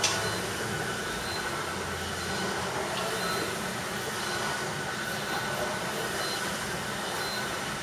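Kayak ergometer's flywheel spinning with a steady whir, with a sharp click right at the start.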